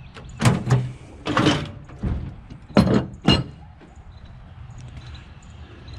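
A rusty water heater tank being wrestled into a truck: four knocks and bumps in the first few seconds, one of them a longer scraping slide, then quieter.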